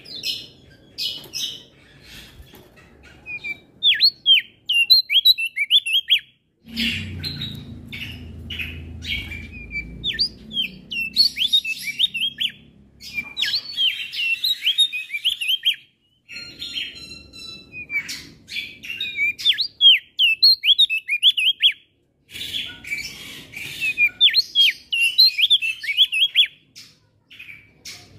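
Male opior jambul (Javan grey-throated white-eye) singing a fast, continuous run of high chirps and twitters, in spliced segments that start and stop abruptly. A low background rumble runs under some parts.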